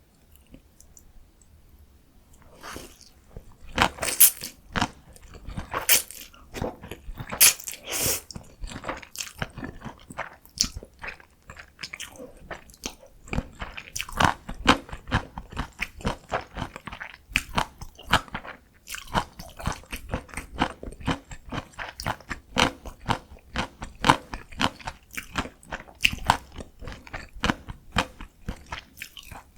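Close-miked eating sounds: a person biting and chewing food with crisp crunching and wet mouth clicks, starting about three seconds in and going on densely.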